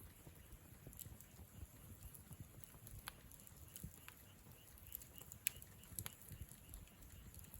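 Wood campfire burning softly: a low steady flame rumble with scattered small crackles and pops at irregular moments, the sharpest pop about five and a half seconds in.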